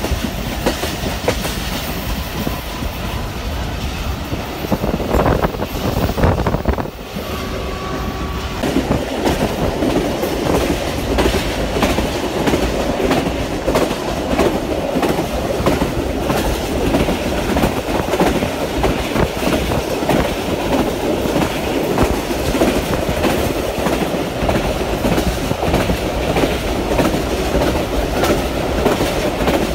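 Passenger train running at speed, heard from aboard: a steady rumble of wheels on rails with the clickety-clack of rail joints. It briefly dips about seven seconds in, then runs louder and fuller.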